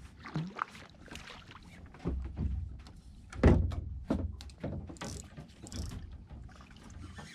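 Irregular knocks and thumps on a small fishing boat while a small dogfish is landed and handled, the loudest thump about three and a half seconds in.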